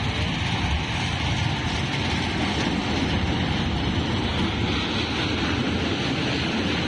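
Fairground ride train running: a steady, even rumble with hiss and no distinct knocks or changes.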